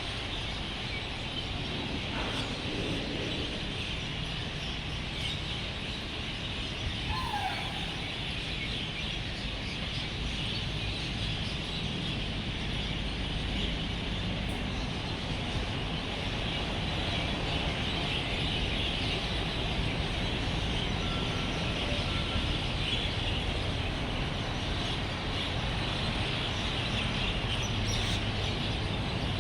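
Dense chorus of many birds chirping together as they gather to roost at dusk, over a steady low rumble of road traffic. One short falling call stands out about seven seconds in.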